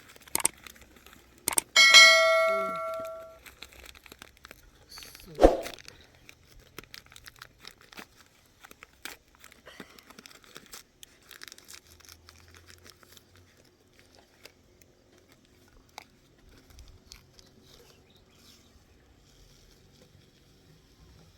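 A metal object struck once, ringing for about a second and a half with a bell-like tone. A few sharp knocks come around it, then only faint light clattering of things being handled.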